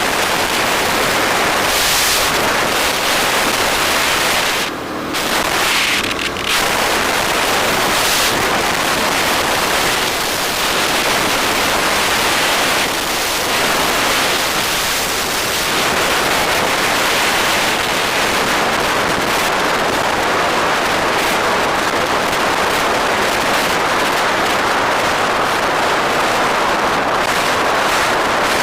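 Steady loud rush of wind over the microphone of a camera on a moving bike, with road and traffic noise under it. It eases briefly about five seconds in.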